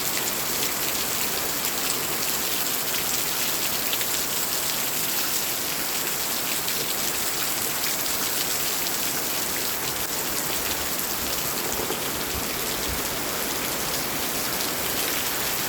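Heavy rain falling steadily, a dense, even hiss of many drops at a constant level.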